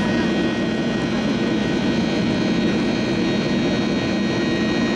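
Boeing 737-800's CFM56-7B1 turbofan engines running steadily, heard from inside the cabin: an even rumble with thin, steady whining tones above it.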